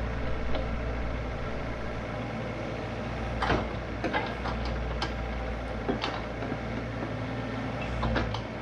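Excavator's diesel engine running steadily with a deep hum, and several sharp metallic clanks a few seconds in and again near the end as the machine digs.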